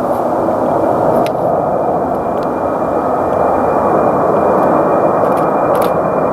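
A jet airliner's engines: a steady rushing noise with a thin high whine held throughout.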